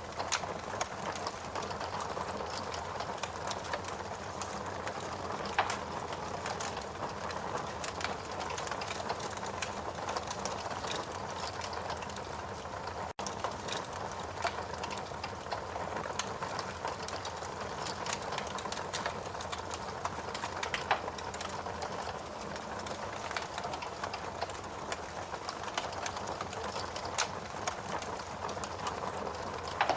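Wood fire burning in a fireplace: a steady hiss with many small, irregular crackles and pops. A momentary gap in the sound about thirteen seconds in.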